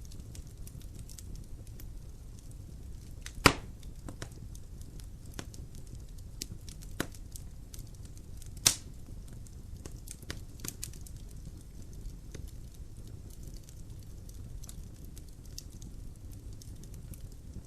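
Logs burning in a fireplace, crackling with many small snaps over a low steady rumble of the fire, and two loud pops about five seconds apart.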